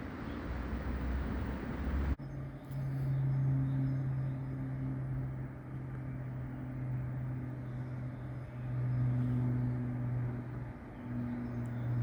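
A train's rushing noise that cuts off abruptly about two seconds in, followed by a steady low hum from a train at the station, swelling and easing in loudness a few times.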